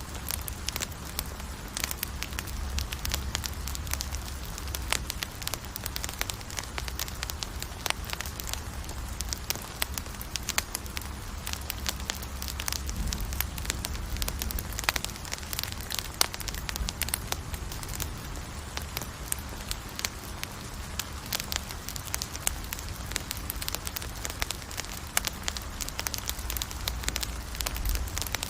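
Wood campfire burning with dense, irregular crackles and pops over a low rumble of the flames.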